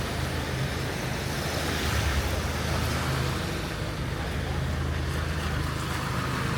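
Steady hiss of rain with a low rumble of traffic underneath.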